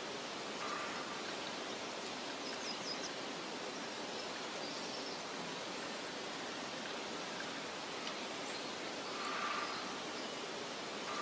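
Steady hiss of wind through meadow grass, with a few faint, short high bird chirps over it.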